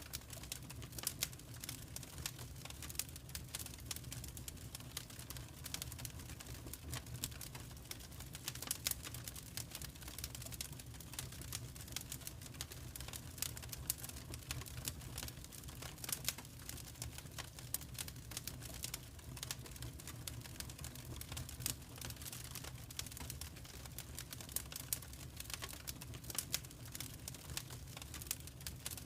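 Wood fire crackling in a fireplace: a steady run of irregular small pops and snaps over a low, even rumble.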